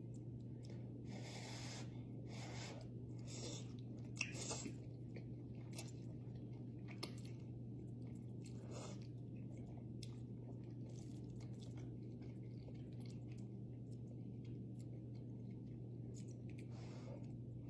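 Close-miked eating of spicy ramen noodles: chewing and biting in short scattered sounds, most of them in the first few seconds, over a steady low hum.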